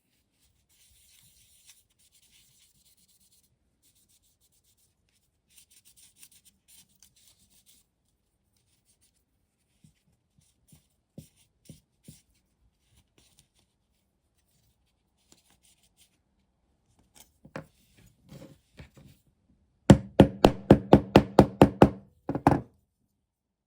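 Hand work on a small hard object: faint scraping and scattered light taps, then near the end a quick run of about ten loud knocks in two seconds, followed by two more.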